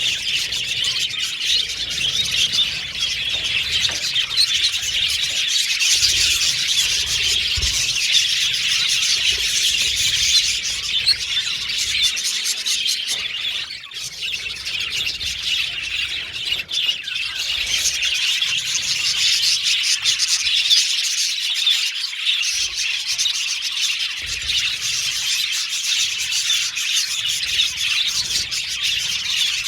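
A flock of budgerigars chattering and chirping together: a dense, continuous high twittering with squeaky calls, easing briefly about halfway through.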